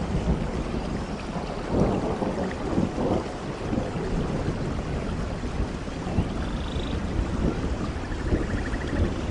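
Steady rainfall, an even hiss of rain over a continuous low rumble. A few faint high chirps come through in the second half.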